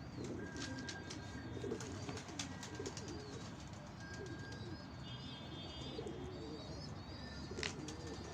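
Domestic pigeons cooing in low, wavering calls, with small birds chirping thinly higher up and a few sharp clicks.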